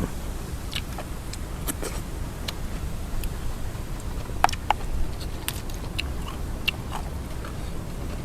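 Irregular sharp clicks and crunches of someone eating, over a steady low rumble of wind buffeting the microphone.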